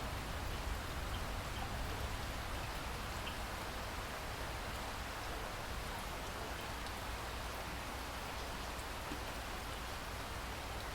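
Steady rain falling, a constant hiss with a few faint individual drop ticks.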